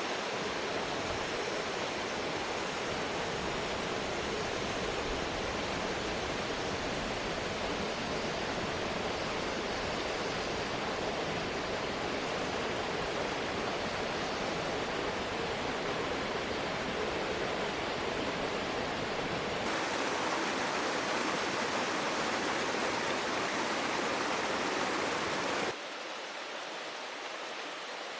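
Steady rushing noise of water, with no distinct events; it brightens abruptly about twenty seconds in and drops quieter about two seconds before the end.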